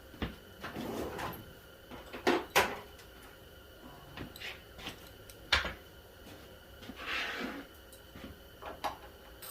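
Hand tools clinking and knocking: a socket and ratchet being picked out and handled, in a few sharp metallic knocks spread over several seconds, with a brief rustle near the end.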